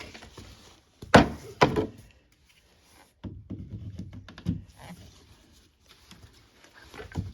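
Handling knocks and clunks at a central vacuum wall inlet while the plumbing snake is worked in the line. Two loud knocks come about a second in, followed by a few seconds of low clattering and one more knock near the end.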